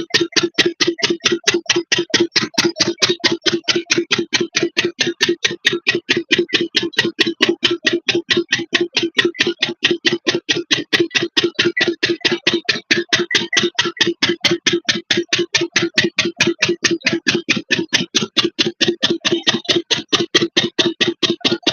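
8 hp single-cylinder diesel engine running a water pump, a steady, even thump at about five beats a second.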